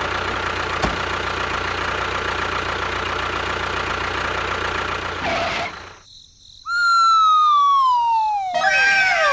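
A steady mechanical whirring runs for about five and a half seconds, then stops. After a short gap comes a loud descending whistle tone with overtones, then several overlapping falling whistles near the end, like a cartoon falling-whistle sound effect.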